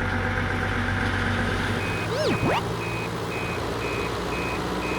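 Dump truck's diesel engine running steadily, with its reversing alarm starting about two seconds in, beeping about twice a second. A short swooping tone rises and falls just after the beeping starts.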